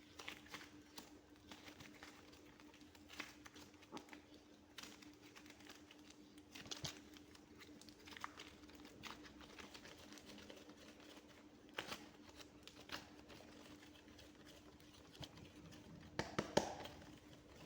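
Soft clay being pressed and squeezed by hand, with faint, scattered sticky clicks and crackles and a denser burst of them near the end. A faint steady hum runs underneath.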